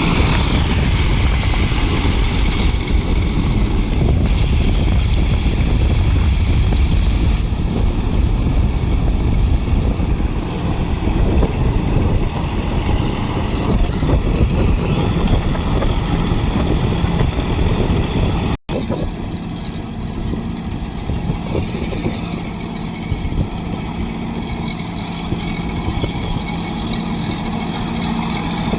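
Tractor engine running steadily. The sound cuts out for an instant about two-thirds of the way in, then carries on a little quieter.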